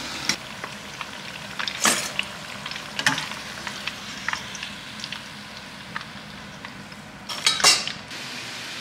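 Aubergine strips frying in hot oil in a frying pan, a steady faint sizzle, with sharp clicks and scrapes of a metal skimmer against the pan as the pieces are lifted out. A louder clatter comes near the end.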